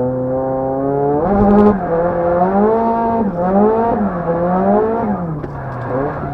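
Nissan SR20 turbo four-cylinder, built to 2.1 L with a Trust T518Z turbo and an Artrack S4 exhaust manifold, revving. The revs climb steadily for about a second, jump, then rise and fall repeatedly as the throttle is worked on and off.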